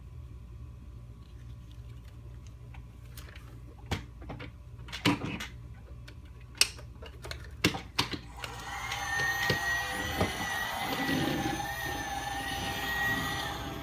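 Scattered clicks and knocks of plastic being handled, then, about eight seconds in, the small electric motor of a working toy vacuum cleaner switches on and runs with a steady high whine, winding down at the end.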